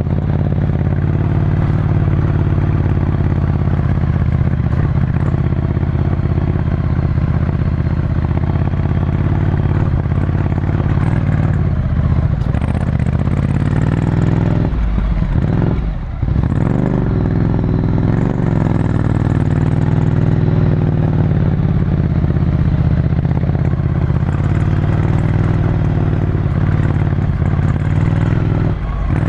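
Ducati Scrambler Desert Sled's air-cooled L-twin running under way through a full Termignoni exhaust, heard from onboard. The engine note is steady, drops briefly about halfway through, then picks up again.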